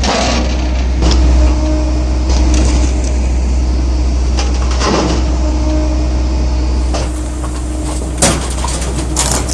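Electric hydraulic log splitter running with a steady low hum from its motor and pump. Sharp cracks and knocks come about a second in, near the middle and near the end.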